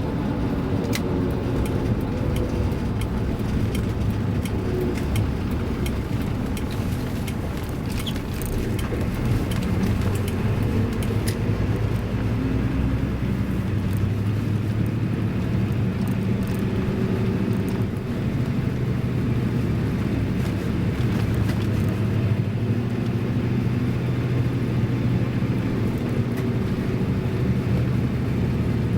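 Toyota Land Cruiser HJ60's 2H straight-six diesel running steadily on the move, with road noise and a few light clicks or rattles about 8 to 11 seconds in.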